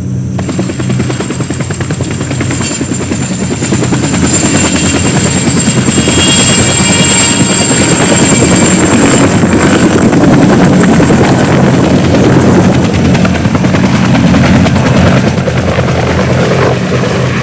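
Helicopter close by, its rotor blades chopping rapidly under a steady high whine. It grows louder over the first few seconds, then stays loud.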